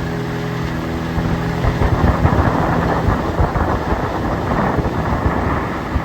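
A boat's motor running steadily. About two seconds in, a louder, rough rush of wind and water buffeting takes over and covers the engine's tone.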